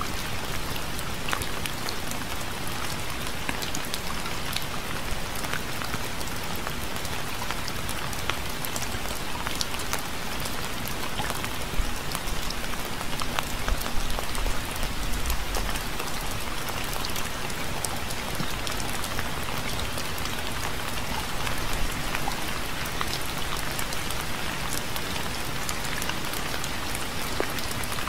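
Steady rain falling on a surface, an even hiss with many individual drops ticking through it. A brief low rumble comes about halfway through.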